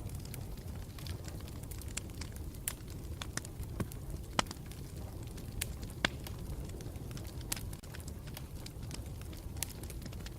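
Campfire burning with a steady low rumble and irregular sharp crackles and pops, a few louder snaps among them.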